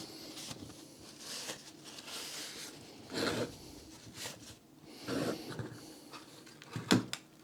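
Light handling noises at a workbench: rustling and brief scuffs of small parts being worked, with one sharp click near the end.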